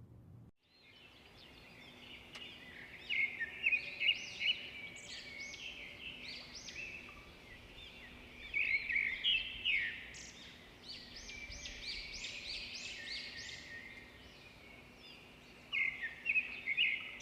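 Several birds chirping and singing in quick overlapping calls, coming in busy flurries a few seconds in, around the middle and again near the end, over a faint steady hum.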